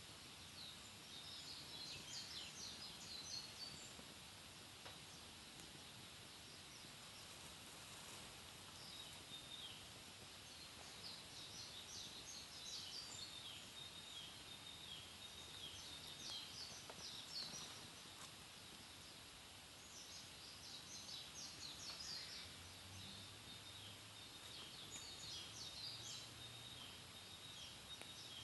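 Wood fire burning quietly in a Picogrill 498 fire pit, with a few faint crackles, under bursts of small birds twittering.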